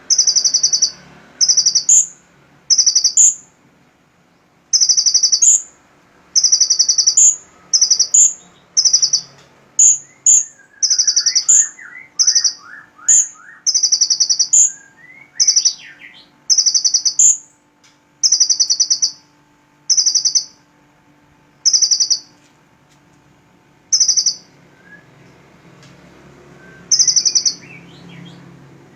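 A purple-throated sunbird singing a run of loud, short, high buzzy notes, each about half a second long with a quick upward flick at the end, repeated with short pauses. A fainter, lower trill from another bird comes in about midway and again near the end.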